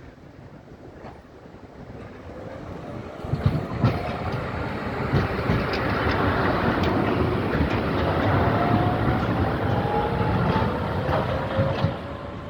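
Electric tram running past on street track. Its wheels knock over rail joints a few times early on, then a steady rumble carries a slowly rising whine as it gathers speed, and the sound falls away just before the end.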